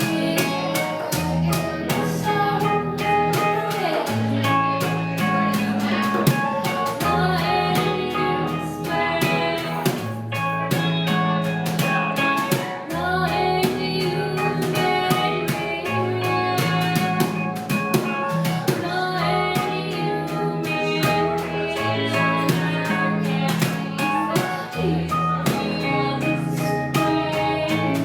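Live band playing a jazzy, ethereal song: drum kit with busy cymbals, guitar, and a bass line that shifts to a new low note every two to three seconds.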